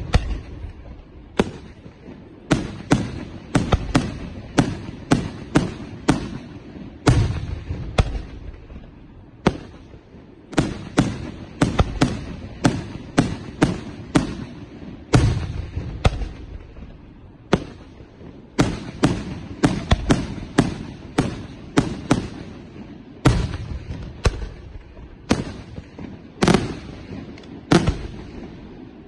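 Aerial firework shells bursting in quick, irregular succession, about one or two sharp bangs a second. Several louder bursts carry a deep boom with a short echoing tail.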